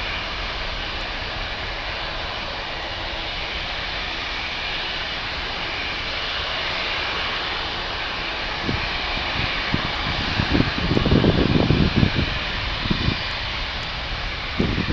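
Boeing C-17A Globemaster III's four Pratt & Whitney F117 turbofan engines at takeoff power, a steady, even jet noise. From a little past halfway, uneven low rumbles come in over it and grow stronger toward the end.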